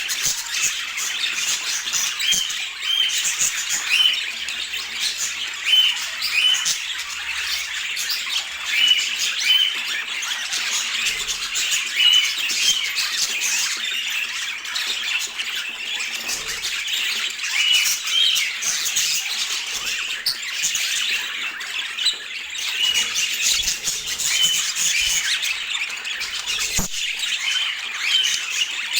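Budgerigars chattering continuously, a dense mix of short chirps and calls overlapping without a pause.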